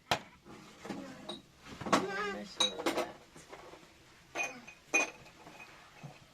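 Scattered sharp clinks and knocks of household objects being handled, with a short voice about two seconds in.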